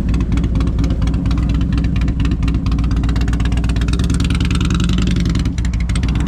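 Harley-Davidson V-twin motorcycle engine running steadily, a fast, even train of firing pulses.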